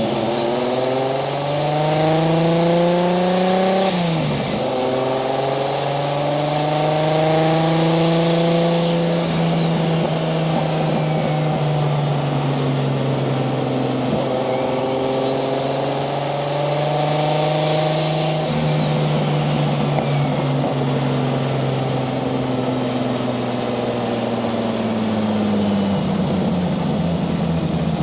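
Turbocharged 1JZ VVTi straight-six in a Nissan 240SX accelerating hard, with a gear change about four seconds in, then pulling again in the next gear. A high turbo whistle rises and falls with each pull, the second time about two-thirds of the way through. The engine then settles and eases off at cruising speed.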